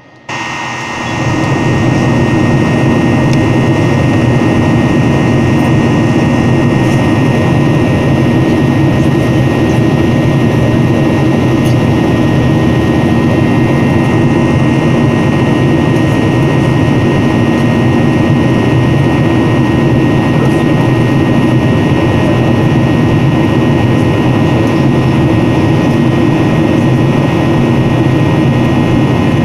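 Jet airliner engines running at steady high power: a loud, even rumble with a steady whine on top. The sound comes in abruptly just after the start and then holds level without change.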